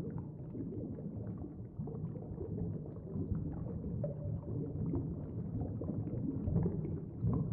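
Low, muffled background ambience, a steady murky rumble with scattered faint clicks and crackles, with nothing in the upper range.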